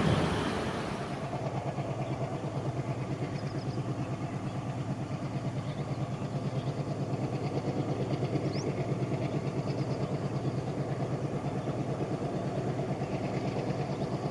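ALCo WDM-3D diesel locomotive's 251 engine running with a steady, rhythmic chug.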